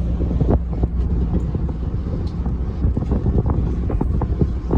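Ferry under way: its engine drones in a steady low hum, with wind buffeting the microphone.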